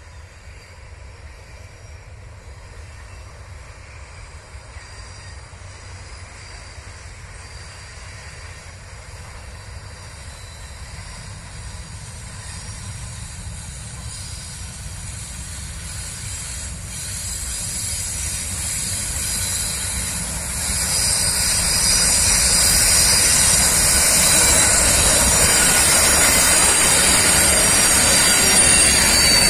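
Diesel-hauled freight train approaching and passing close: a low engine and rolling rumble that grows steadily louder, jumping up about two-thirds of the way through. High-pitched wheel squeal and hiss build strongly over the last several seconds as the locomotive and wagons draw alongside.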